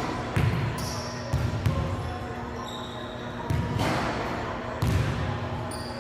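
Basketball bouncing on a court floor: a handful of irregular low thumps, with short high squeaks between them.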